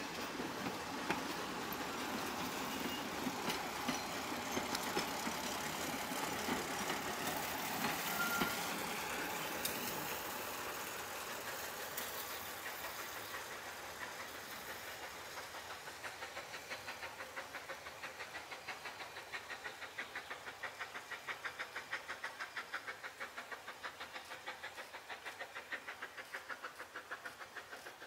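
Narrow-gauge steam train passing close by: the carriages run over the rails with clicks from the wheels, then the sound fades as the train draws away. A regular rapid beat, about three a second, continues as it recedes.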